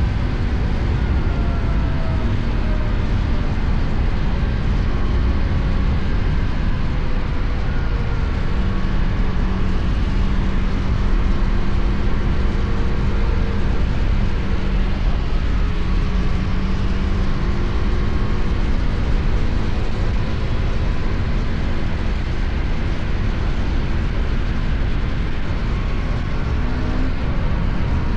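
KTM Duke 250's single-cylinder engine running at a steady highway cruise, with road noise and heavy wind rumble on the helmet-mounted microphone. The engine pitch drifts only slightly, with no shifts or sharp revving.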